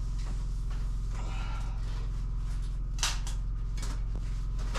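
Short knocks and scrapes of material being lifted and fitted, the sharpest about three seconds in and another a second later, over a steady low hum.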